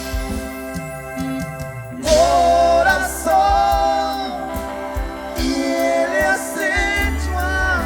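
Live ranchera band playing, with a steady bass under a wavering melody line that comes in about two seconds in and sounds like singing.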